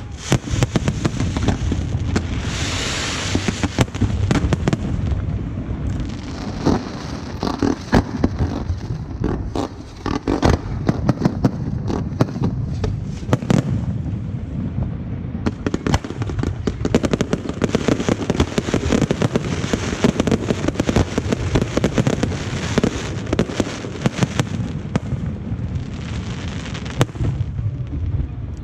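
Aerial fireworks display: a dense, continuous barrage of shell bursts and crackling, booming bangs over a low rumble, with hardly a pause.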